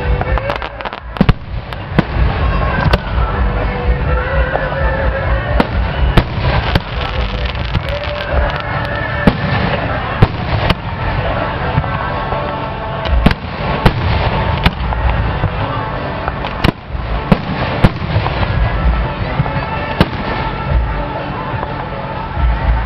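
Aerial fireworks shells launching and bursting overhead: a fast, irregular series of sharp bangs throughout, over a continuous bed of lighter pops and rumble.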